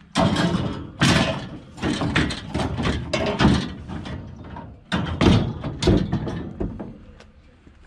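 Scrap metal being shifted by hand: a run of clanks, rattles and scrapes, loudest about a second in and again around five to six seconds, thinning out near the end.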